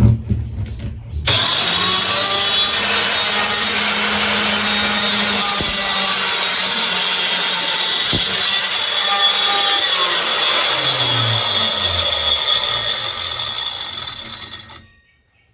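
Circular saw running and cutting through wood: a loud, steady, high whine with cutting noise. It starts about a second in and stops suddenly near the end.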